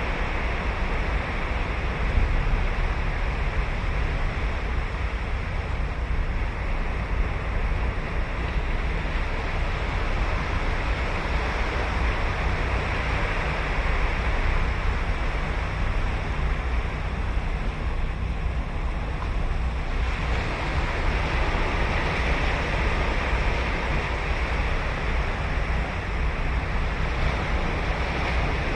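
Ocean surf breaking and washing on a sandy beach, a steady rush that swells and eases, with a low rumble of wind on the microphone underneath.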